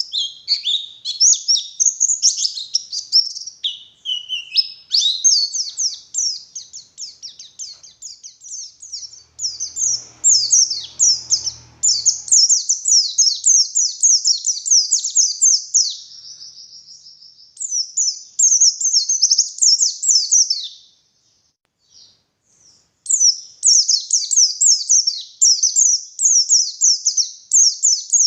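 White-eye (pleci) singing vigorously: a fast, unbroken run of high chirping and warbling notes. The song pauses for about two seconds near the end, then resumes.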